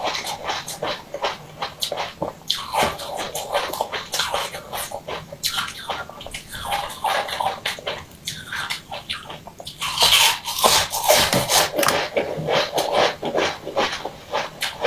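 Close-up eating sounds of chewing a glossy purple donut-shaped sweet: wet squelching with many quick crackling clicks, louder from about ten seconds in.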